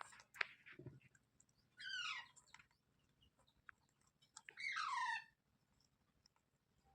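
Green parrot giving two harsh calls, each a quick downward-sweeping screech under a second long, about two seconds in and again about four and a half seconds in, with small clicks and taps between them.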